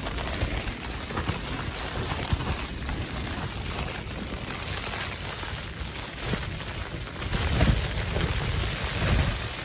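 Blizzard wind gusting, with a steady hiss of driven snow and uneven low rumbling surges. The gusting swells strongest about three-quarters of the way through.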